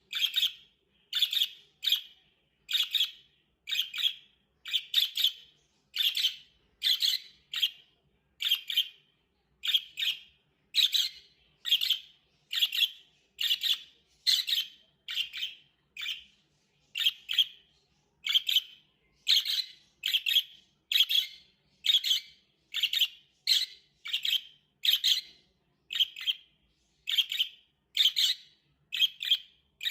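Budgerigar giving short, sharp chirping calls over and over, about one and a half calls a second in a steady series, with near silence between them.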